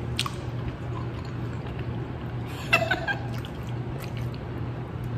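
Close-up eating sounds from chewing a chicken wing, small wet mouth clicks, with a brief high vocal sound from the eater about three seconds in, over a steady low hum.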